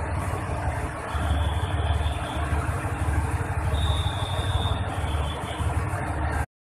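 Diesel train running slowly through a railway station, a steady low rumble with a faint high squeal about a second in and again near four seconds. The sound cuts off abruptly just before the end.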